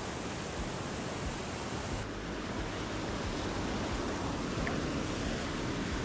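Steady rushing of a waterfall and its falling water: an even, unbroken roar.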